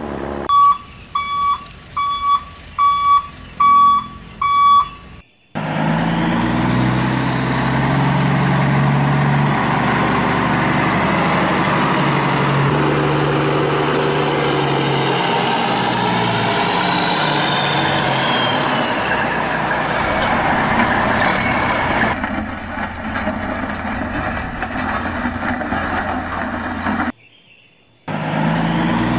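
A reversing alarm beeps about seven times at an even pace. Then a heavy truck engine starts running steadily, with a high whine that rises and then falls in pitch. The engine cuts out briefly near the end, then runs again.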